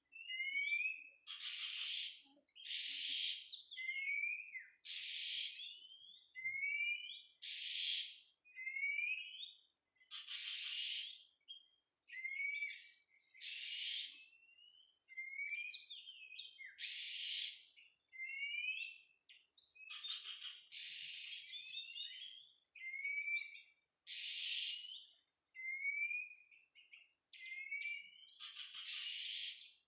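Oriental magpie-robin (kacer) song: harsh, scratchy notes alternating with short rising whistles, repeated every second or two, over a faint steady high whine.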